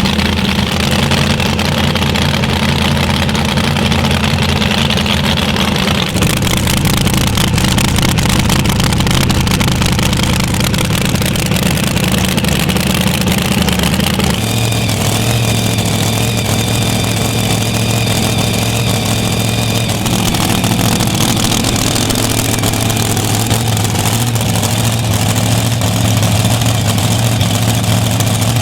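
A loud engine idling steadily, with no revving. Its note changes about six seconds in and again around fourteen seconds in, and a faint high whine rides over it for several seconds after the second change.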